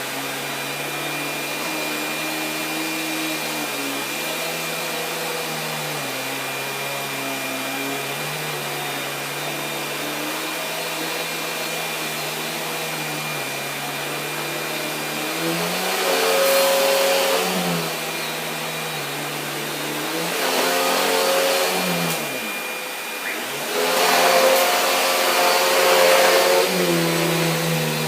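Vacuum cleaner motor running with a steady hum whose pitch shifts up and down as the airflow changes. It surges louder with a rush of hissing air about halfway through, and twice more near the end.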